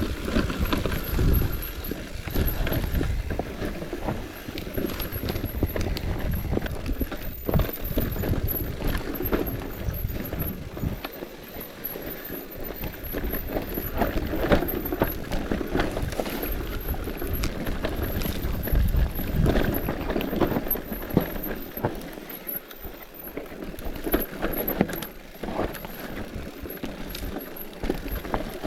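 Bicycle riding over rough ground, with a steady low rumble of wind and tyres and a dense, irregular clatter of rattles and knocks.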